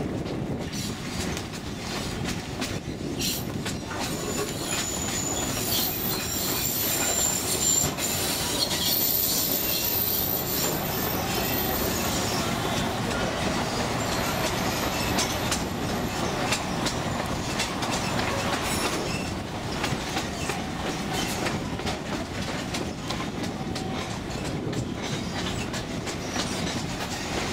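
Narrow-gauge tourist train running, heard from an open-sided railcar: a steady rumble and clatter of wheels on rail joints. High-pitched wheel squeals come and go through the middle of the run.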